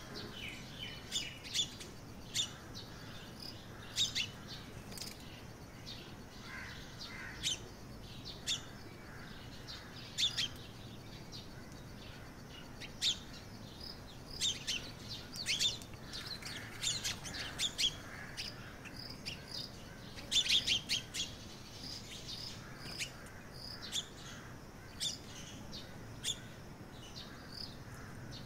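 Small birds chirping: short, high chirps at irregular intervals, several times in quick clusters, over a faint steady background noise.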